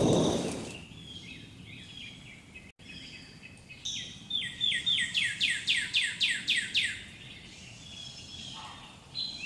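Songbird singing: scattered high chirps, then a quick run of about a dozen downward-slurred notes at about four a second, preceded by a brief burst of rushing noise at the very start.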